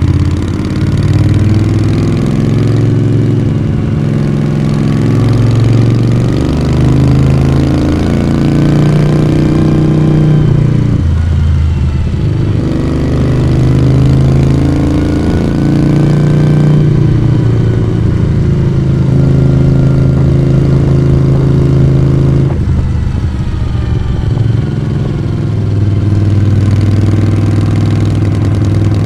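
Moto Guzzi V35's transverse V-twin engine and exhaust heard from the rider's seat while riding, the revs rising and falling several times with throttle and gear changes.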